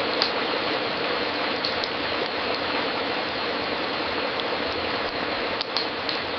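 Fireplace crackling: a steady dense hiss of burning wood with a few sharp pops scattered through it.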